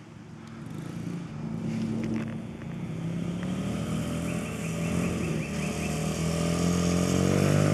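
2007 Honda 50cc dirt bike's small single-cylinder four-stroke engine running, growing steadily louder as it approaches, its pitch climbing a little near the end.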